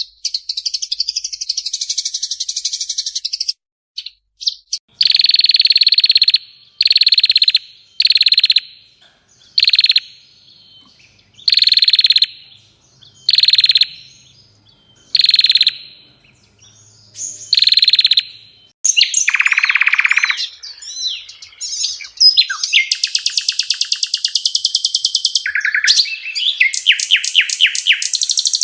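A songbird giving harsh, rapid 'tembak kasar' (rough-shot) song, the kind used as masteran training calls for caged songbirds. It sings a string of buzzy bursts, each about a second long and coming about every one and a half seconds, then a long, fast rattling trill near the end.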